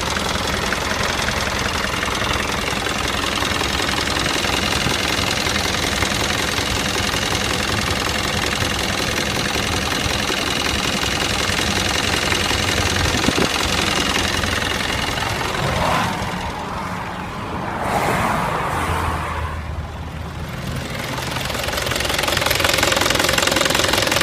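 Mitsubishi 4D33 four-cylinder diesel engine running at a steady idle with a diesel clatter. The sound drops for a few seconds about two-thirds of the way through, then comes back to full.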